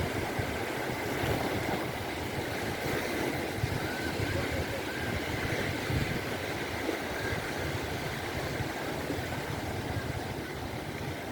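Mediterranean Sea waves washing steadily onto the beach, with gusty wind rumbling on the microphone.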